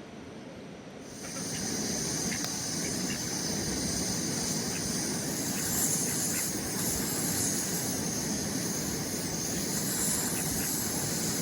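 Steady rush of water that starts suddenly about a second in and keeps going evenly, with a strong hiss.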